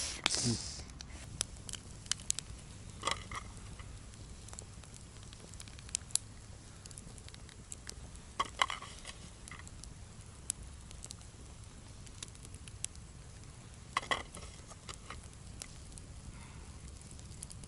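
Wood campfire crackling: scattered sharp snaps and pops, with a few louder clusters of pops, over a steady low rumble.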